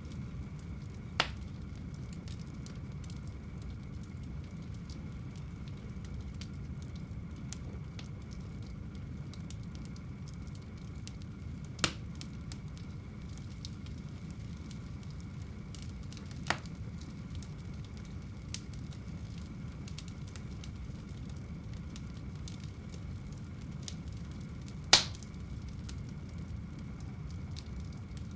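Wood fire burning in a home fireplace: a low steady rumble with occasional sharp pops from the logs, four clear ones, the loudest a few seconds before the end.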